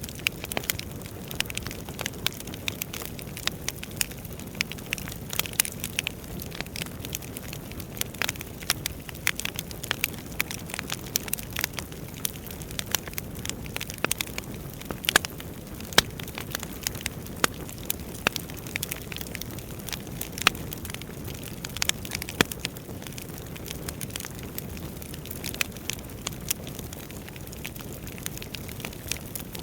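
Wood fire burning in a fireplace: irregular crackling and snapping pops, several a second, over a low steady rush of the flames.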